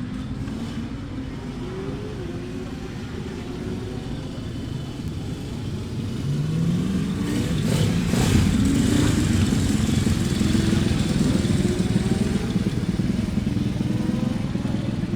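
Classic racing motorcycle engine running, revving up a little past halfway through and then holding at higher, louder revs.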